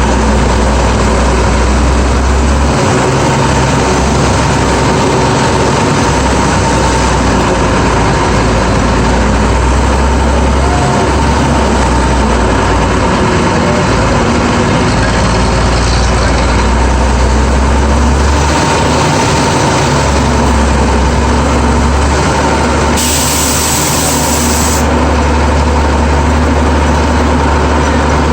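GMC DUKW amphibious 6x6 truck's engine running under way, heard from aboard, its low note rising and falling every few seconds, with a faint steady whine over it. A short hiss comes late on.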